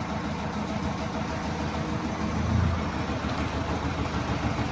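Subaru Outback's 2.0 boxer turbo-diesel engine idling steadily, briefly a little louder about halfway through. The crankshaft pulley has play, caused by a failed dual-mass flywheel, and the mechanic judges the engine worn out.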